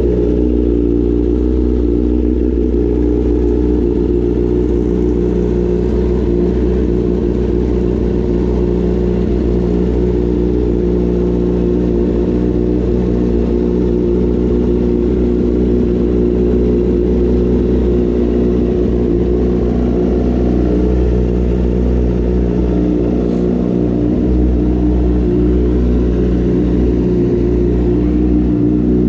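Honda CBR1000RR sport bike's inline-four engine idling steadily at an even pitch, warming up on its first start of the riding season.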